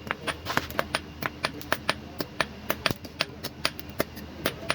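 Hand hammer striking metal in quick, even blows, about four a second, as a fishing-spear blank is forged.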